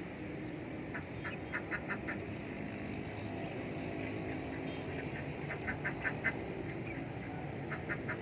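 Ducks quacking in three quick runs of short calls, about five a second, over a steady low background noise.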